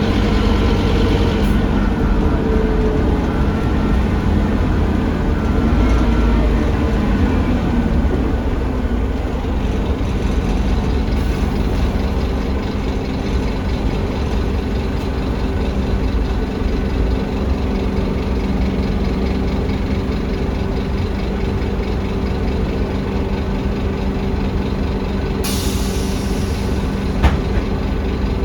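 Scania DC9 diesel engine of an articulated Scania K310UA bus, heard on board, dropping in pitch over the first several seconds as the bus slows, then running steadily at idle. Near the end comes a short, sharp hiss of compressed air being released, followed by a single click.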